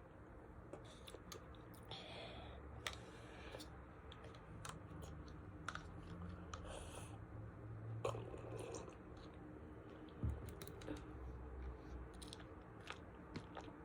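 Faint chewing and small wet mouth clicks from someone eating a grape-flavoured jelly with soft jelly balls.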